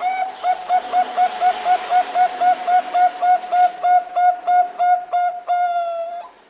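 Bangkok-type perkutut (zebra dove) singing: a fast run of short cooing notes at one pitch, about four a second, ending in one longer drawn-out note.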